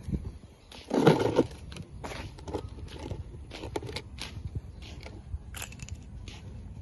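Dry leaves and vegetation crackling and crunching as they are pushed aside, with short clicks and scrapes throughout and one louder noise about a second in.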